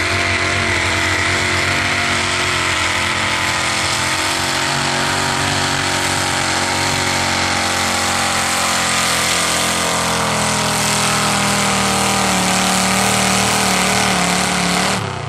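Pulling truck's engine at full throttle during a truck pull, loud and steady, climbing slightly in pitch late on, then cut off abruptly near the end.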